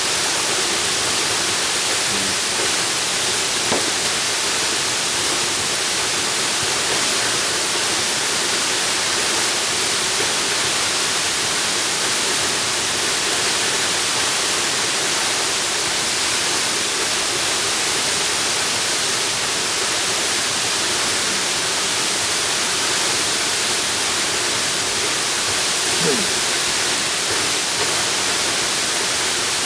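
Jungle waterfall: a steady, even rush of falling water.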